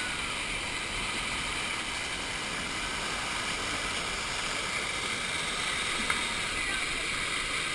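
Steady rush of moving water in a water-park river ride's current channel, with one sharp click about six seconds in.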